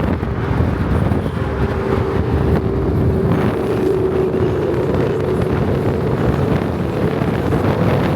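A car driving along, with wind buffeting the microphone over a steady drone.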